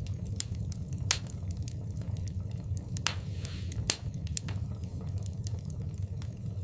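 Wood fire in a fireplace crackling: scattered sharp pops over a steady low rumble, with two louder pops about a second in and just before four seconds in, and a brief hiss around three seconds in.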